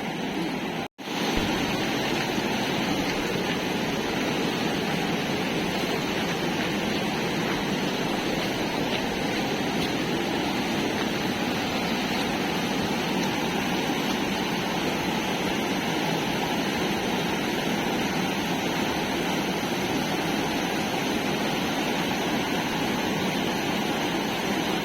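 Fast-flowing floodwater rushing in a steady, even roar, broken only by a brief drop-out about a second in.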